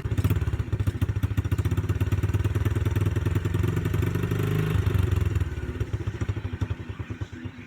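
Small 49cc engine of a Baja Motorsports DR49 dirt bike running rough after years of sitting, its exhaust note raw through a large hole in the exhaust. About five and a half seconds in, the firing weakens and slows as if the engine is about to stall.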